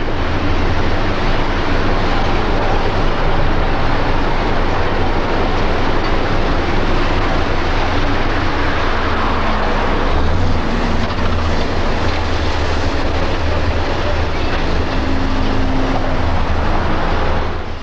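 South Shore GE 'Little Joe' electric freight locomotive shoving a cut of freight cars: a loud, steady running and rolling noise over a low hum.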